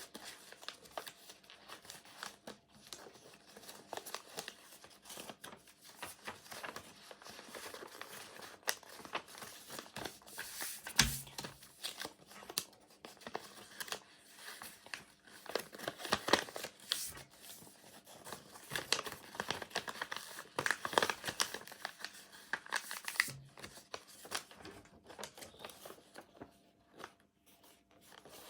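A sheet of paper being folded and creased by hand, with irregular crinkling and rustling. There is a sharper knock about eleven seconds in and a lighter one near the end.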